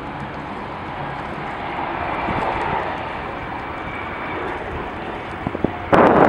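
Jet airliner engines heard at a distance, a steady rush with a faint whine that swells a little a couple of seconds in. Near the end, wind suddenly buffets the microphone loudly.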